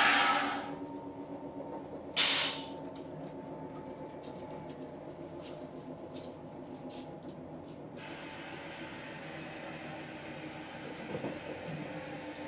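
Passenger train running, heard from inside the carriage: a steady rumble with faint ticks. Two short, loud bursts of hiss come at the start and about two seconds in.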